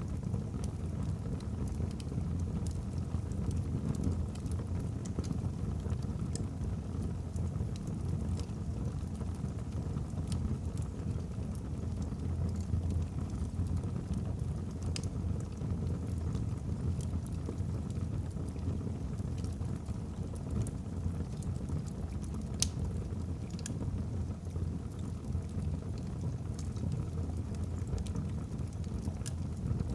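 Wood fire burning in a fireplace: a steady low rumble of the flames with scattered small crackles from the logs, and one sharper pop a little past the middle.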